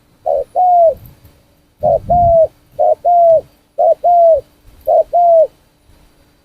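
Spotted dove cooing: five two-part coos about a second apart, each a short note followed by a longer held note that drops at the end.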